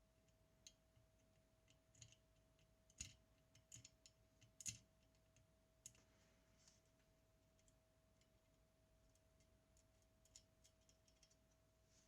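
Faint, scattered small clicks and taps, as of small parts and tools being handled during a camera repair, the clearest about three seconds in and again just before five seconds, over a faint steady hum.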